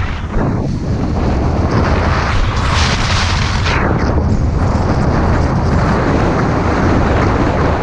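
Wind buffeting the microphone with a heavy rumble while skiing downhill, over the hiss of skis on snow that swells about three seconds in.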